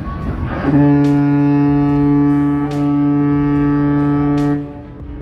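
A long, steady horn blast at one pitch, about four seconds, that cuts off and then sounds again just after the end. Faint regular ticks run beneath it.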